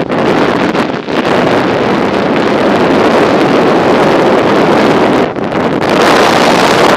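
Wind buffeting the microphone of a camera on a moving bicycle: a loud, steady rush that dips briefly about five seconds in.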